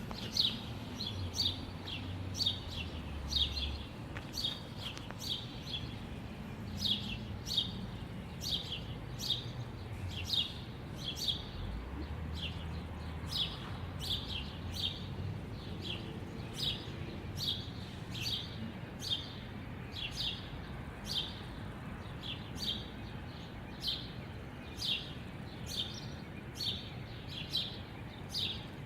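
A songbird chirping over and over, short sharp chirps about once or twice a second, over a low steady background rumble.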